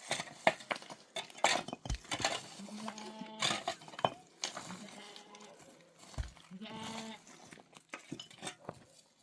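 Livestock bleating twice, two steady drawn-out bleats a few seconds apart, amid scattered sharp clicks and knocks.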